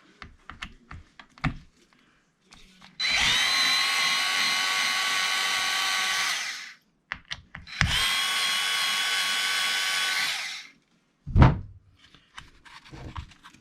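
A cordless electric screwdriver runs twice, about three seconds each time, its motor whine climbing briefly as it spins up, backing out two screws on an RC truck. A single loud thump follows near the end, with a few small clicks early on.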